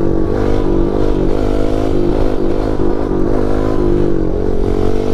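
Pit bike's small single-cylinder four-stroke engine running under way, its revs rising and falling slightly.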